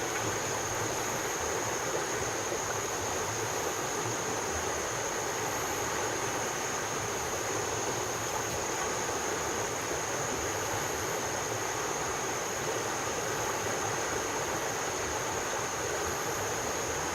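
Steady rainforest ambience: an even rushing wash with a continuous high-pitched drone and faint, short high chirps repeating about once a second.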